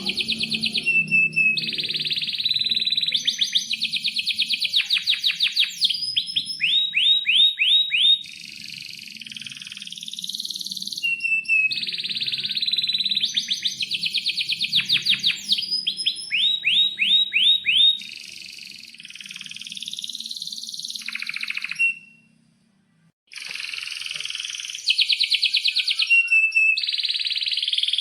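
Domestic canary singing a long, continuous song of fast trills and rapid runs of repeated chirps, high-pitched. The song breaks off for about a second roughly three-quarters of the way through, then resumes.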